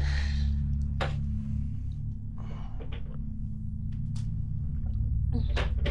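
A low, steady drone with several held low tones, with a few light clicks and knocks over it.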